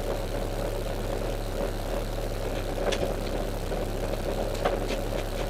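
Rally car's engine idling steadily, heard from inside the cabin, with a few light clicks about halfway through and near the end.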